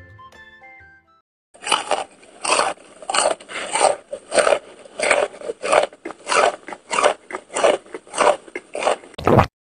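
Crunchy chewing and munching, a steady run of bites about twice a second that stops abruptly near the end.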